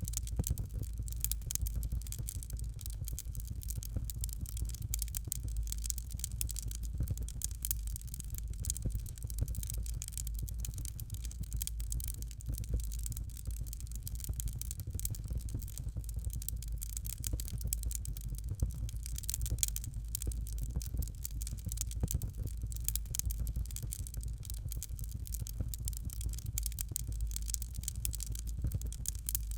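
Fire crackling in a fireplace: a dense, irregular stream of small crackles and pops over a steady low rumble.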